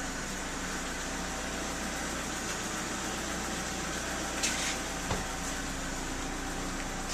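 Steady background noise with a low hum, a brief hiss about four and a half seconds in and a small click just after.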